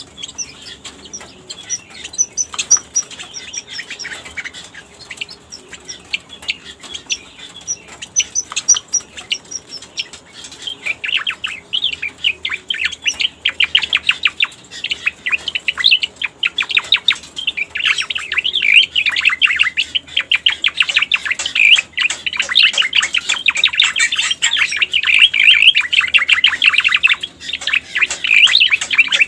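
Cica koreng (grassbird) song used as a lure call: fast chattering, twittering phrases. They are soft and sparse at first and become loud and continuous about a third of the way in.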